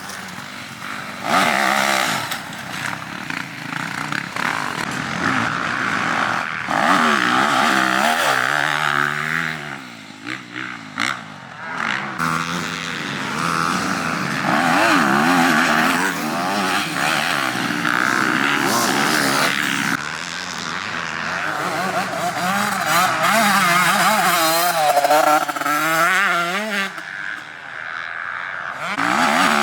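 Motocross dirt bike engines revving hard, the pitch climbing and dropping again and again with throttle and gear changes. The level dips briefly twice.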